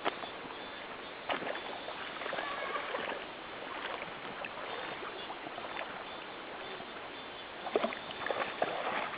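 River water running, with scattered splashes of dogs wading and swimming, the splashes bunched near the start and again near the end.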